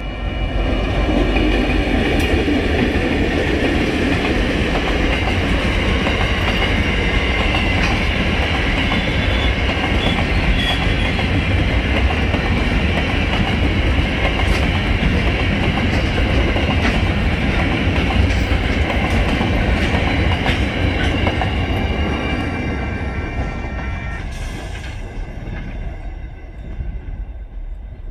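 Diesel-hauled freight train passing close by: the locomotives' engines give way to empty ballast hopper wagons rolling past in a steady rumble and clatter of wheels on rail, with a thin high-pitched tone running over it. The sound fades away over the last few seconds as the train's end goes by.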